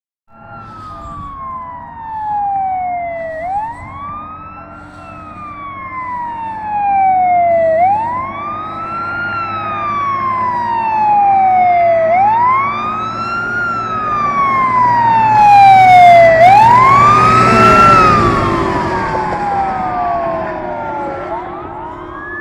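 Fire truck siren in a wail, each cycle rising quickly and falling slowly, repeating about every four and a half seconds, over the truck's engine. It grows louder as the apparatus approaches and is loudest about three quarters of the way through, then fades a little as it passes.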